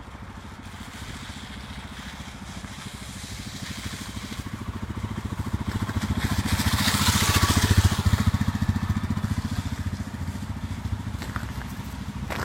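A motor vehicle's engine passing by: it grows louder, is closest and loudest about two-thirds of the way in with a burst of hiss, then fades away.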